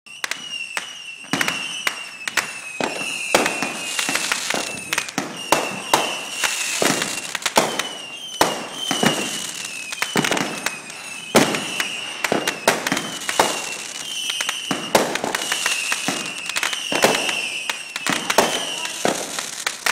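Fireworks going off in a dense, uneven run of sharp bangs and crackles, several a second, with aerial shells bursting overhead.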